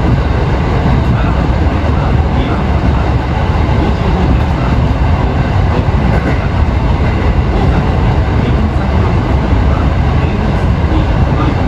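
Kintetsu electric commuter train running at speed through a long tunnel, heard from inside the front car: a steady, loud rumble of wheels and running gear echoing off the tunnel walls.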